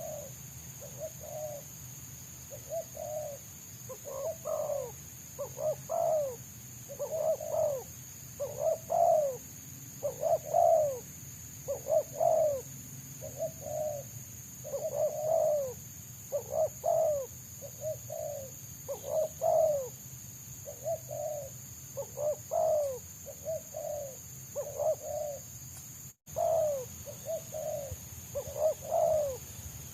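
Spotted doves (tekukur) cooing: a fast, close-set run of short coos, roughly one or two a second, some louder and some fainter.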